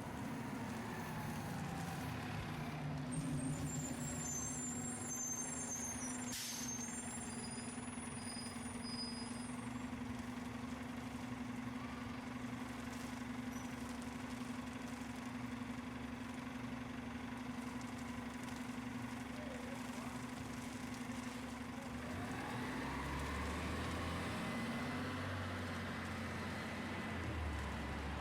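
Heavy vehicle engine running in city traffic with a steady hum, with a cluster of high squeaks and a sharp click a few seconds in. A deeper engine rumble takes over near the end.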